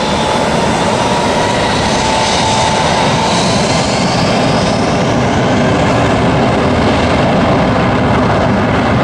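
Airbus A321 airliner's jet engines at high power: a loud, steady rush with a whine that slowly drops in pitch as the plane goes by.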